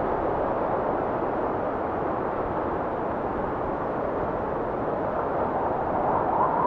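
Wind blowing steadily, a continuous rush of noise that swells a little near the end.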